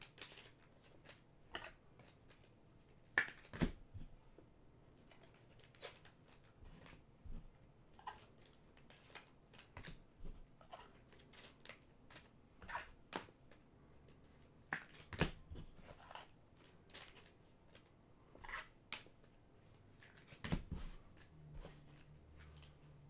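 Trading cards being handled and flipped through one at a time: light, irregular snaps and slides of card stock, roughly one or two a second.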